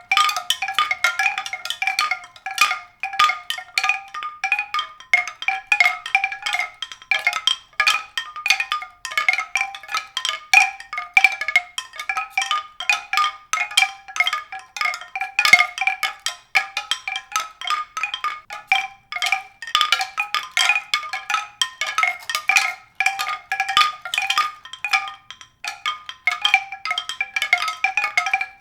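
Tuned mallet percussion played as a dense, unbroken stream of quick struck notes, several a second, in the middle and upper range.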